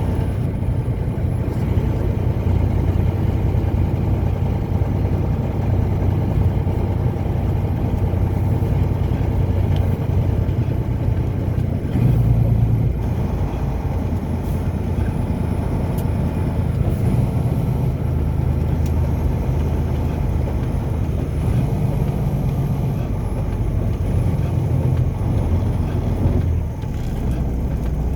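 A car driving at a steady pace: a continuous low engine and road rumble, with a brief swell about twelve seconds in.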